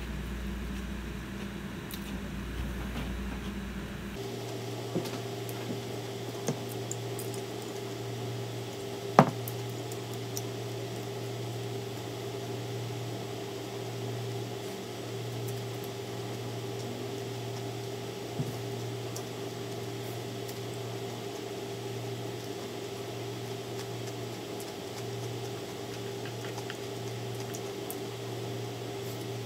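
Steady electrical hum, whose pitch changes about four seconds in, under faint wet chewing of pad thai noodles. A few short sharp clicks come through, the loudest about nine seconds in.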